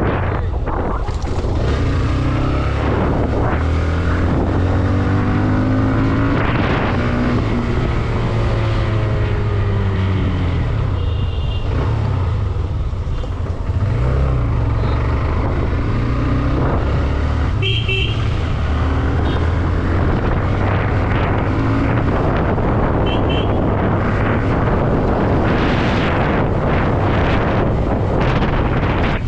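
Hero Xtreme 125R motorcycle's single-cylinder engine running while riding, its pitch rising and falling with the throttle, under a steady rush of wind on the microphone.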